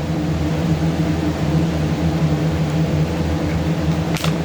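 Steady low mechanical hum, with a short sharp click about four seconds in.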